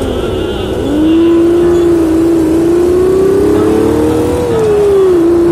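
Big-bike exhaust sound of a 2006 Yamaha Jupiter MX 135 underway, which the owner plays through a switchable speaker sound simulator while the real exhaust is stock. The note dips briefly at the start, climbs in pitch over about four seconds, then drops back near the end, over wind rumble on the microphone.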